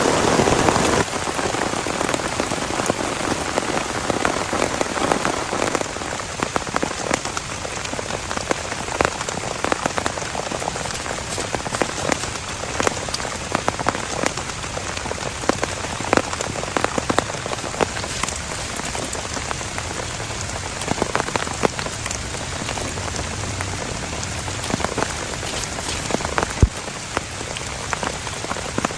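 Steady heavy rain, with many large drops striking a nearby surface in sharp single taps. It is a little heavier in the first second.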